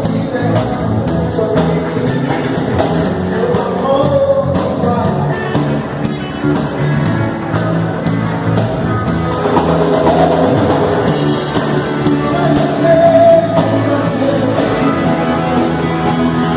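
Rock music with a singing voice over a steady band accompaniment, as in a band running through a song at a sound check.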